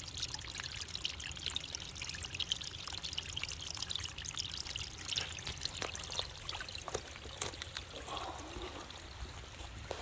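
Running water trickling and splashing steadily, with a few sharp ticks of drips near the middle.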